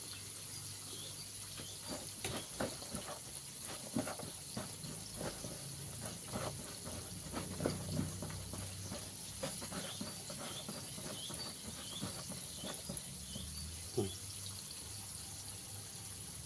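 Hands working chicken pieces through a bowl of flour: irregular soft taps, knocks and rustling, thickest in the first two-thirds, over a steady low hum. A faint run of evenly spaced high chirps comes near the middle.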